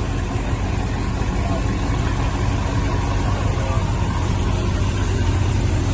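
Car engine running at a low, steady idle, getting slightly louder near the end.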